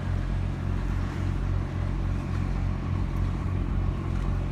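Tugboat's diesel engine running with a steady low rumble.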